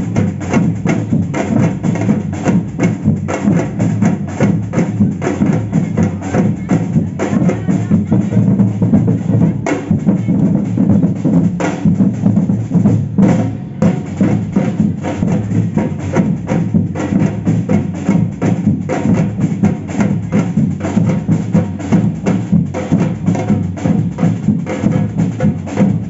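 Samba drum band (batucada) playing a fast, steady samba rhythm, with deep bass drums carrying the beat under a dense run of sharper drum strokes.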